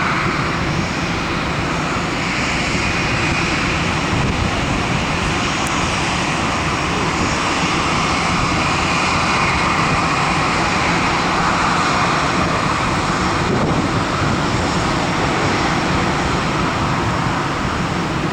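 Jet engines of an Airbus A320-214 airliner running: a loud, steady rush of engine noise with a faint high whine that comes and goes.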